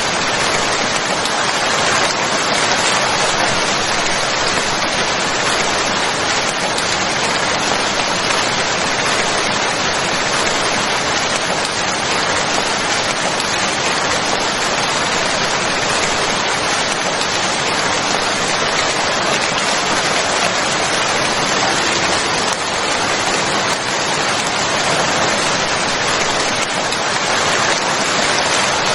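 Steady, continuous rainfall: an even hiss of rain on a surface with no changes or breaks.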